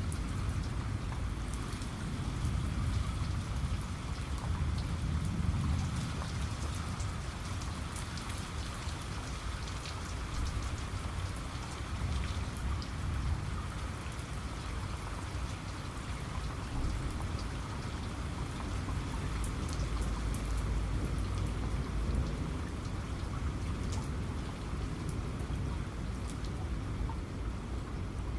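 Steady rain with individual drops ticking on a surface, under a low rumble of thunder that swells twice.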